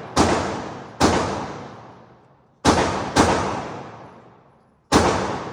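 Handgun shots fired one at a time, five in all at uneven intervals, each sharp crack followed by a long echoing tail that dies away over a second or more.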